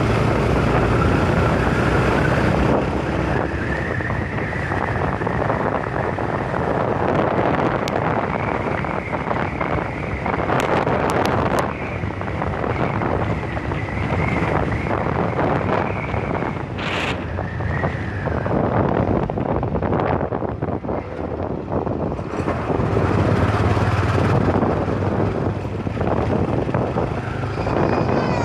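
Wind buffeting the microphone over the running noise of a moving motorcycle and the road traffic around it. A heavier low engine rumble swells about twenty-three seconds in, and there is a brief high-pitched sound about seventeen seconds in.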